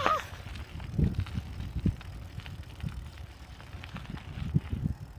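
Bicycle riding: low wind rumble on the microphone with scattered knocks and rattles from the bike over the road surface, after a short shout right at the start.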